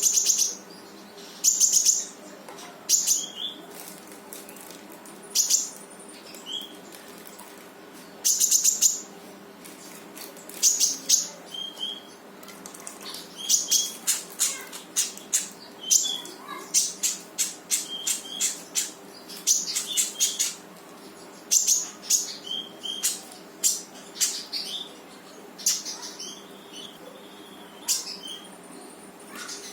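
Konin songbird in full 'gacor' song: repeated sharp, high 'tembakan' shot calls and short whistled notes, a phrase every second or two, over a faint steady low hum.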